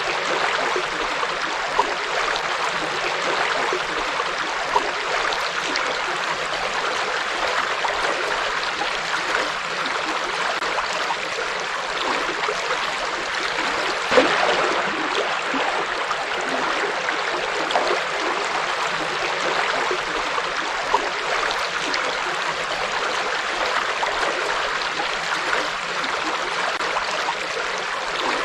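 River water flowing and splashing steadily, with a few brief louder splashes, the largest about halfway through.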